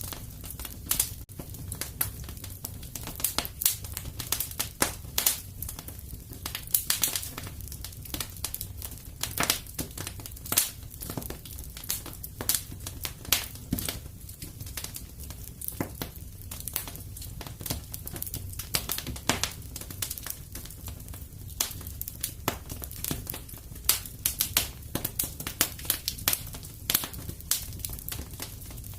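Wood fire in a fireplace crackling: irregular sharp pops and snaps, many each second, over a steady low rumble.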